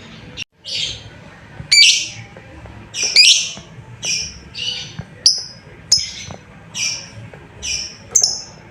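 Lovebird giving a series of about ten short, harsh, high-pitched calls, one every half to one second: a calling-out sound used to lure other lovebirds to answer.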